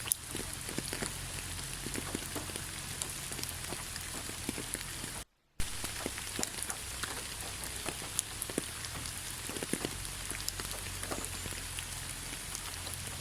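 Steady rain falling on a forest road, an even hiss with many separate drops heard as sharp ticks. A little past five seconds in, the sound cuts out completely for about a third of a second, then resumes.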